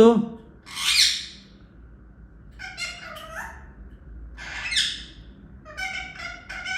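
Parrot squawking, with a harsh screech about a second in and another near five seconds. Between and after the screeches come quick runs of short chattering calls.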